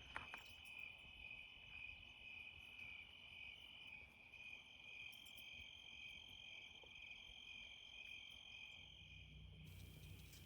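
Faint, steady trilling of crickets, several insects calling at once without a break.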